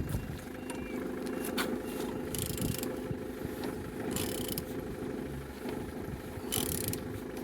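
Opel A18XER four-cylinder petrol engine being turned over by hand to check that it rotates freely, with short hissing rushes about every two seconds and a few light clicks, over a steady hum.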